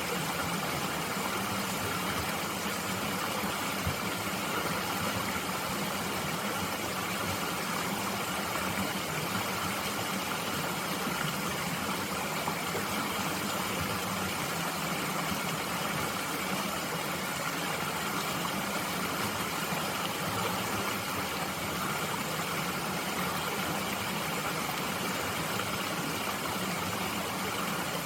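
Mountain stream water flowing steadily, an even rushing with no breaks.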